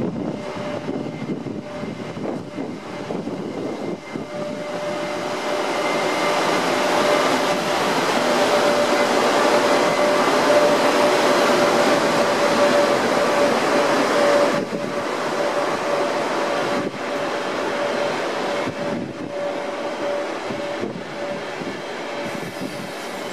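VR Sr1 electric locomotive hauling double-deck passenger coaches past at speed: the wheels-on-rail rumble grows as it approaches, with a steady whine riding on it. The sound is loudest as the locomotive goes by about halfway through, then eases slightly as the coaches roll past.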